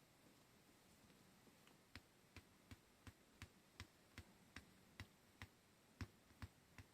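A run of about thirteen light, sharp clicks, roughly two to three a second and fairly evenly spaced, starting about two seconds in and stopping just before the end.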